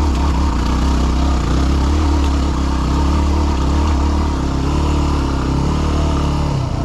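Yamaha WR250R's single-cylinder four-stroke engine running at steady low revs as the dirt bike climbs a rocky trail, the revs rising and falling slightly, with a brief drop near the end.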